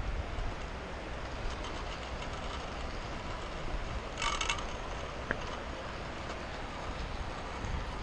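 Zipline trolley running along the steel cable: a steady rattling rumble, with a brief high hiss about four seconds in.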